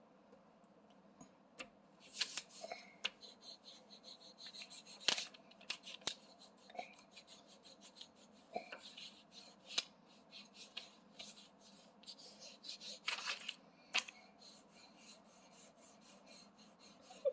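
Faint, uneven scratching of a colouring tool being rubbed back and forth on paper, in short bursts, with a few light taps and clicks on the table.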